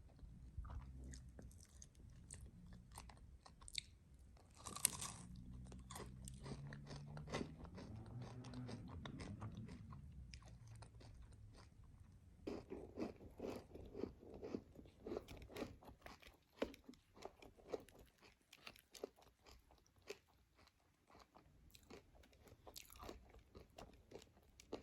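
Close-up eating sounds: chewing with small crunches and clicks, faint, with a brief louder rustle about five seconds in.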